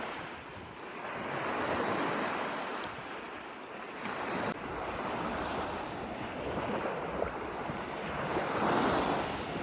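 Small lake waves washing onto a sandy Great Lakes shore, swelling and fading every few seconds, with wind on the microphone.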